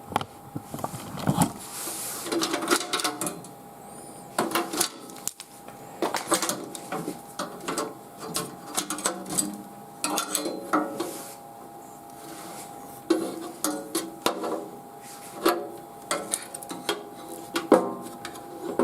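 Handling noise of PC power-supply cables and their plastic connectors: irregular clicks, knocks and rustles as the cables are sorted and fitted. A faint steady tone runs underneath.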